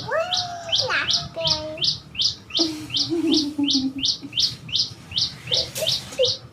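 Small bird chirping in a rapid, even series of short high chirps, about three to four a second.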